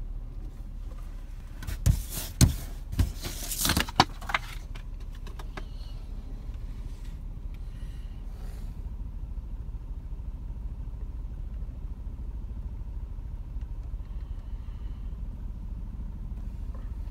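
Vehicle engine running steadily, a low hum heard from inside the cab, with a burst of sharp clicks and rattles about two to four seconds in.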